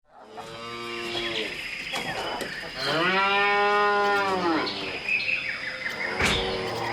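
Cattle mooing: a moo, then a longer, louder one about three seconds in, and a third near the end. A few short high chirps come between the second and third moos.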